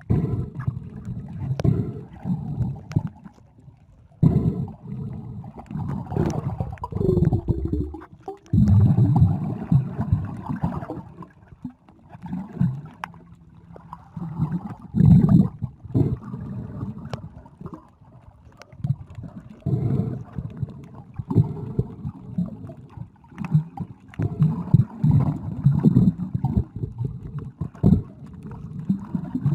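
Muffled sea water sloshing and gurgling around a camera moving underwater, in irregular low surges.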